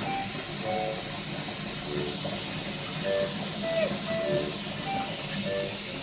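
Steady hiss of hot water running into a washing machine drum, with light background music of short repeated notes over it.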